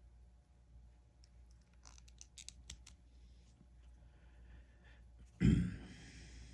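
Light clicks from small hard plastic parts being handled, then a louder scraping rustle with a soft knock about five seconds in.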